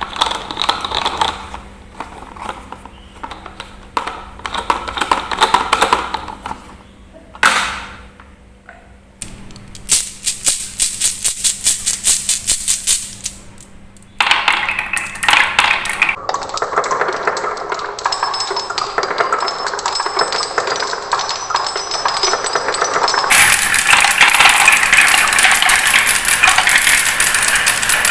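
Marbles rolling and clacking down wooden marble run tracks: rattling knocks, then a stretch of quick, evenly spaced clacks, then after a sudden change a continuous rolling rattle with faint high ringing that gets louder near the end.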